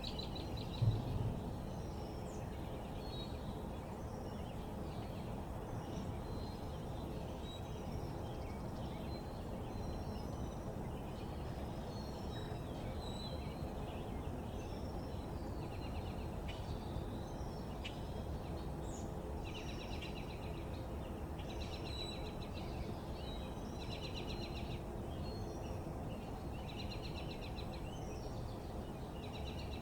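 Several small backyard birds chirping, with a few rapid trills in the second half, over a steady low background rumble. A brief thump sounds about a second in.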